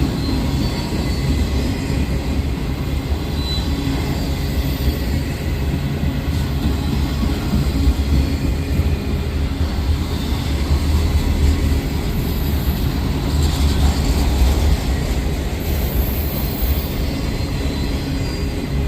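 Freight train rolling past: a steady rumble of wheels on the rails, with short high-pitched wheel squeals about twelve and sixteen seconds in.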